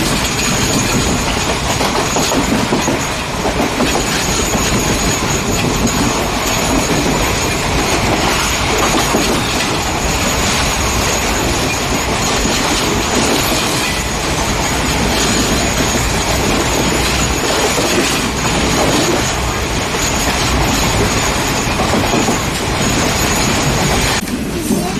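Moving passenger train, heard from inside a carriage: steady running noise of wheels on the rails, with rattling and a thin high squeal throughout, changing abruptly near the end.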